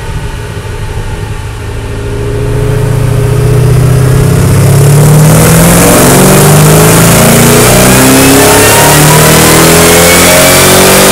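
Shelby Super Snake's supercharged V8 heard from inside the cabin on a chassis dyno: after about two seconds of lower running it goes to full throttle, and the engine note climbs steadily and loudly toward the top of the rev range in a single pull.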